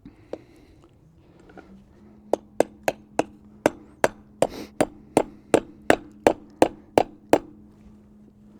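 A hammer tapping in a quick, even run of about fifteen sharp strikes, roughly three a second, starting a couple of seconds in.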